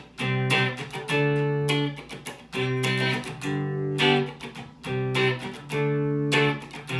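Mexican-made Fender Stratocaster electric guitar strumming a run of chords on its middle pickup alone, played clean, each chord ringing briefly before the next strum.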